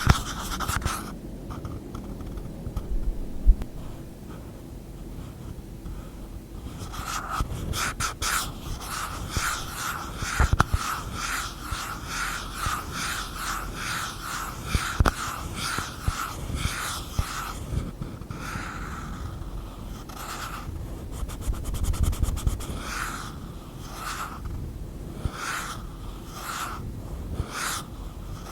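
Fingers and nails scratching and tapping on objects and their lids in quick repeated strokes, about two a second, after a quieter stretch in the first few seconds.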